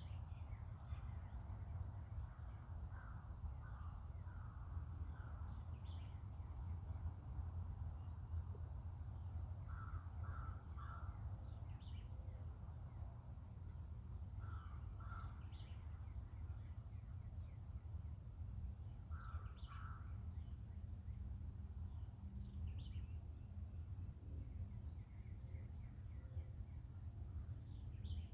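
Birds calling: one bird gives calls in groups of two or three, four or five times, while smaller birds chirp in short high notes, over a steady low rumble.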